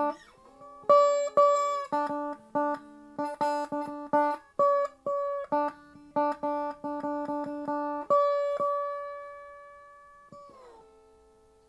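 Lap steel guitar playing the closing phrase: picked notes slid into with the steel bar, then a held final chord that fades and slides down into a last low note near the end.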